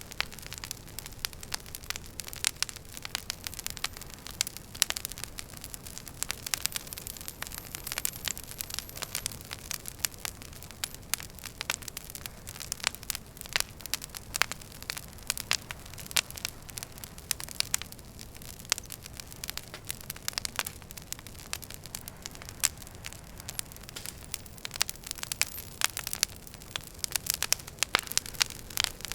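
Wood fire crackling in a fireplace: many irregular sharp pops and snaps over a soft steady hiss and low rumble of the flames.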